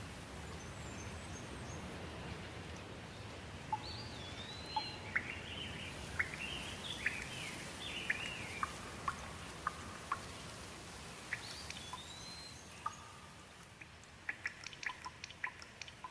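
Steady hiss of rain-like water noise with a bird singing over it: slurred whistles and chirps, one looping high whistle heard twice. Near the end the hiss drops away and a run of quick sharp ticks, like drips, takes over.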